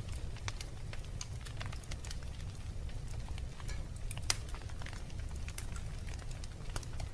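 Wood fire burning in a fireplace, crackling with scattered sharp pops over a steady low rumble; the loudest pop comes about four seconds in.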